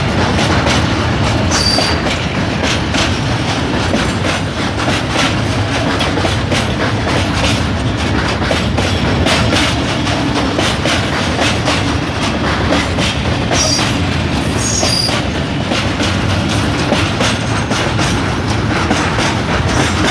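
Freight train wagons rolling past, their wheels clattering steadily over the rail joints, with a few brief high wheel squeals.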